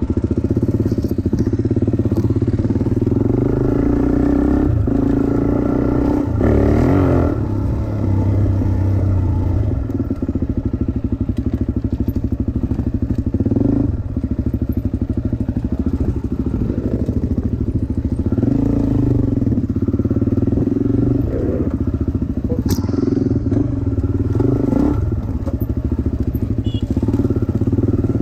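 Dirt bike engine running hard under throttle, its note dipping briefly several times as the rider eases off and rolls back on.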